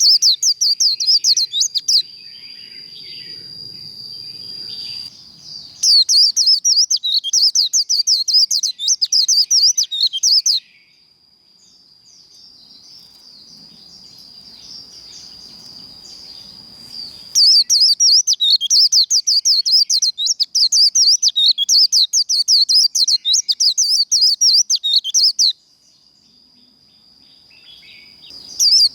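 White-eye (vành khuyên) singing its fast, high 'líu' warbling song in three long bouts. In the pauses between bouts a steady, thin high tone carries on.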